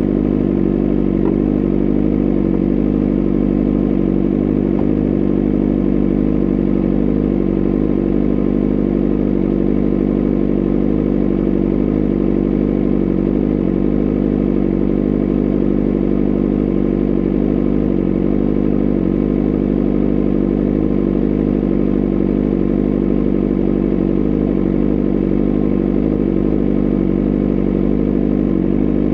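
BMW S1000RR's inline-four engine, running on a new tune, held at a steady engine speed with no revving. The note stays at one pitch throughout.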